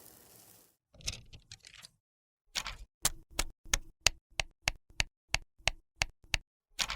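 A brief scraping sound, then a steady run of sharp clicks or taps, hard on hard, about three a second.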